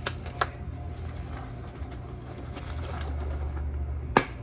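A steady low hum with three sharp snaps or knocks: two close together near the start, and a louder one near the end.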